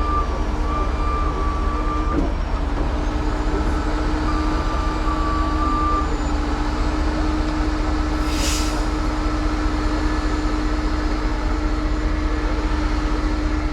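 Heavy tow truck's engine running under load with a steady hydraulic whine as the winch cables are reeled in. There is a short hiss about eight seconds in.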